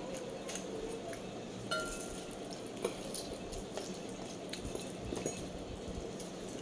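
Scattered light clinks and knocks of dishes and utensils during a meal, the clearest about two seconds in with a brief ring, another about a second later.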